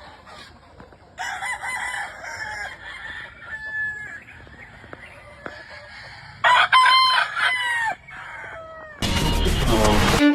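Black gamefowl roosters crowing: two long crows, the second starting about six seconds in, with softer calls between them. A loud rushing noise lasts about a second near the end.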